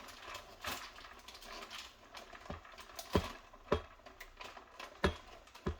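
Light clicks and knocks of equipment being handled, with four sharper knocks in the second half.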